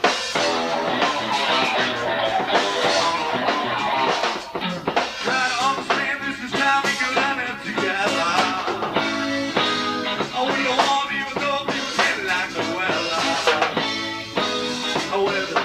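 Live band playing a rock song on guitar, bass guitar and drums, with a steady beat.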